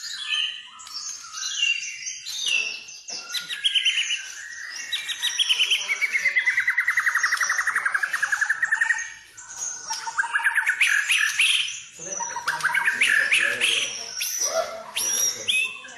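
White-rumped shama (murai batu) singing a rapid, varied song of trills and whistled phrases. Midway a long fast trill dips in pitch and climbs back up, and the other phrases are short and change quickly.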